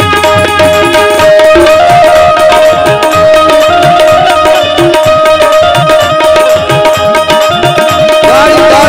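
Instrumental interlude of a devotional bhajan: a tabla rhythm under a sustained melody line of held notes.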